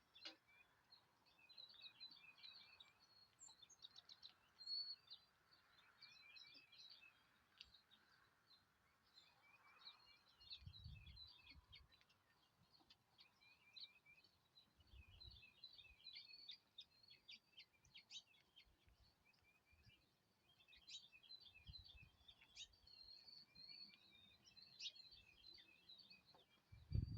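Faint chorus of small songbirds chirping and twittering, many short calls and trills overlapping without pause. A few brief low rumbles come through about a third and halfway in.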